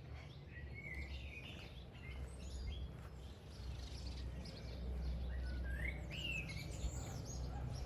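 Birds chirping in short rising calls, a few about a second in and more near the end, over a steady low background rumble.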